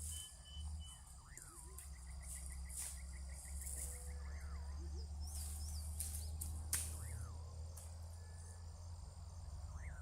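Insects droning steadily at a high pitch, with a short rising-and-falling call repeating every second or two and a fast pulsed trill in the first few seconds. A few brief crackles break in, about three seconds in and again around six to seven seconds.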